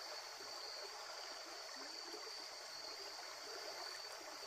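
The Current River flowing steadily past the bank, a soft, even water noise, with the constant high drone of insects over it.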